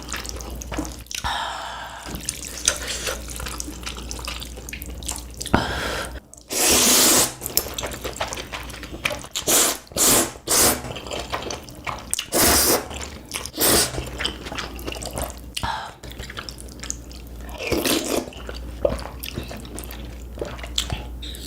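Ramen being eaten: repeated short wet slurps of noodles and broth, with smacking and chewing between them.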